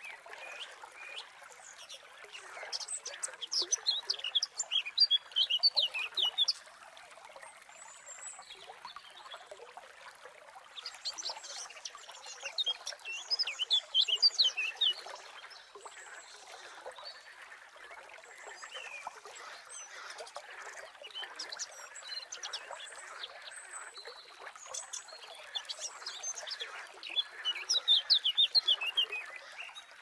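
A songbird singing in three spells of rapid, high chirping phrases over a steady trickle of flowing water.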